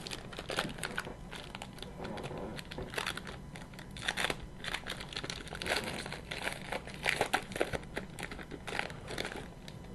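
Foil trading-card pack wrapper crinkling as it is handled and torn open: a dense run of irregular crackles that grows busier in the second half.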